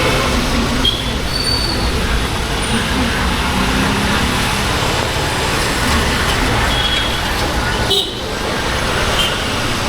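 Honda H'Ness CB350's single-cylinder engine and exhaust running steadily on the move, mixed with wind rush on the camera mic and surrounding road traffic, with a few short high toots. The level dips briefly about eight seconds in.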